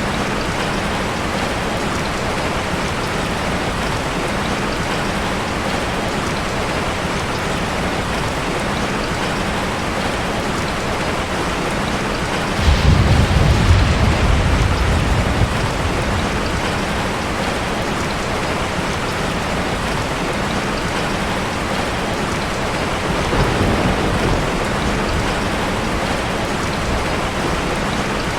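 Steady rain falling. About halfway through, thunder breaks in as a sudden low rumble that fades over about three seconds, and a fainter rumble follows near the end.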